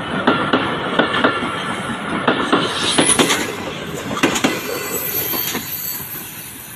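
Passenger train coaches rolling past, the wheels clacking over the rail joints in a steady rhythm as the train departs. There is a brief high wheel squeal about three seconds in, and the sound fades near the end as the train moves away.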